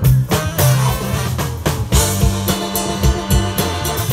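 Live band playing an instrumental passage between sung lines: sustained bass notes under a steady drum beat, in an upbeat funk/soul style.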